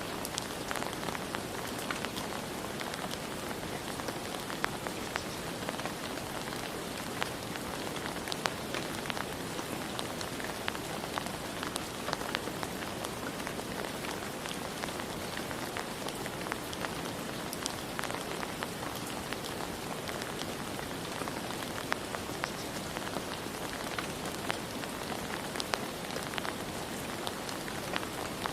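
Steady rain falling on surfaces, an even hiss with many individual drops ticking and pattering through it.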